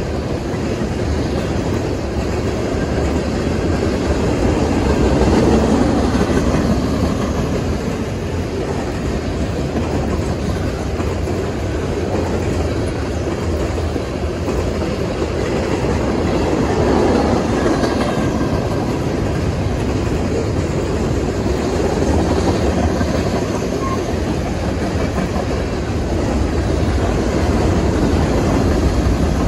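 Freight train of tank cars and covered hopper cars rolling past close by: a steady rumble of steel wheels on rail that swells and eases a little every several seconds as the cars go by.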